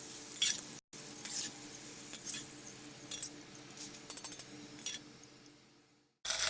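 Hot oil crackling and sizzling around cornflour-coated potato cubes deep-frying in a pan, over a faint steady hum. The crackle dies away near the end.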